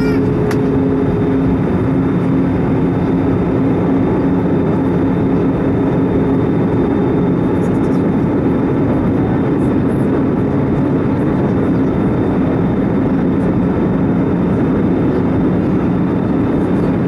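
Airbus A320 cabin noise in flight: a steady drone of engines and airflow with a constant low hum, and a single click about half a second in.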